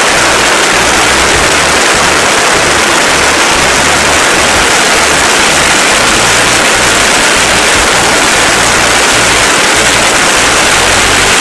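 Loud, steady rush of propeller wash and wind over the microphone, with the MWfly B25L aircraft engine running at high power underneath.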